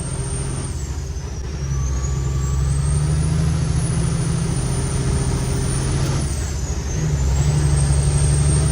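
Cummins X15 diesel in a Kenworth T800 hauling 33 tonnes, pulling hard under throttle. A high whistle rides over the engine note; it drops in pitch twice, about a second and a half in and again near six and a half seconds, as the engine note changes with gear shifts, then climbs back. The driver puts the loud whistle down to the truck's 15-inch air cleaners.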